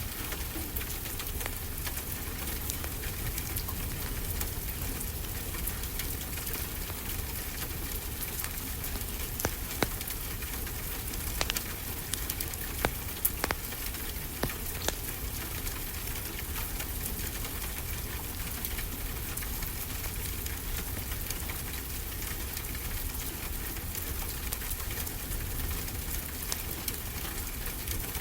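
Fireplace crackling steadily, with a few sharper pops in the middle, over a steady low rumble of ocean surf.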